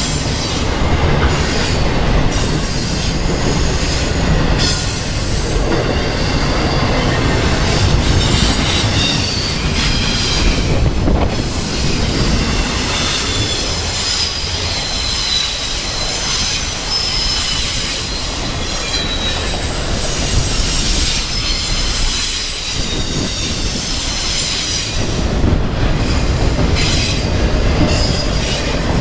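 Intermodal freight cars loaded with double-stack containers and highway trailers rolling past close by: a steady, loud rumble of steel wheels on rail, with a wavering high-pitched wheel squeal over it.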